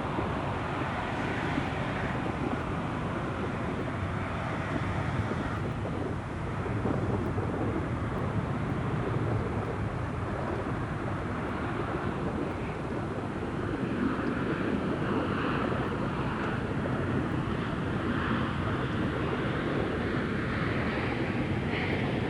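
Jet airliner engines running, a steady broad rumble that grows a little louder about six seconds in and again around fourteen seconds.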